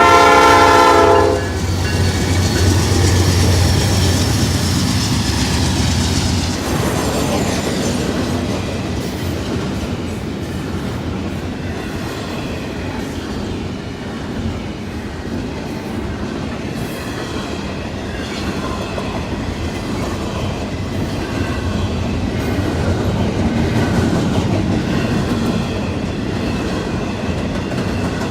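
A diesel locomotive's multi-chime horn sounds a chord and cuts off about a second in. The locomotive's engine drones past for a few seconds, then the train's cars keep rolling by with a steady rumble and clatter of wheels over rail joints.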